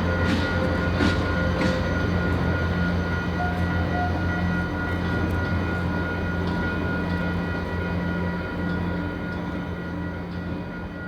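Train rolling past on steel rails: a steady low rumble with a few sharp clicks in the first two seconds, growing quieter near the end.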